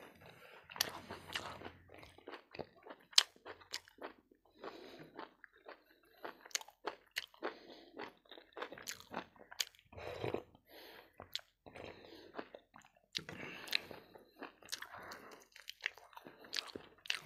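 Close chewing and crunching of fried pig ear, with irregular sharp crunches through the mouthfuls, the loudest about three seconds in. The ear is tough and hard on the teeth to chew.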